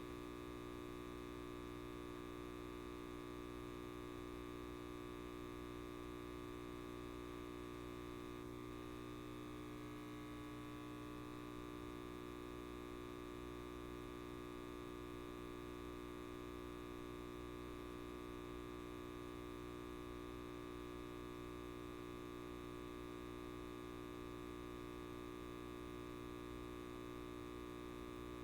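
Light bulb buzzing: a steady, faint electrical hum made of several even tones that holds unchanged.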